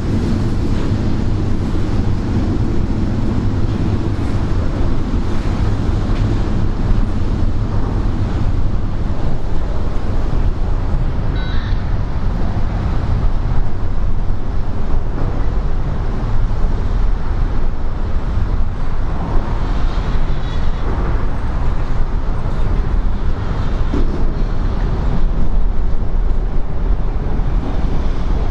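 Steady, loud low rumble of vehicle noise with a constant hiss above it.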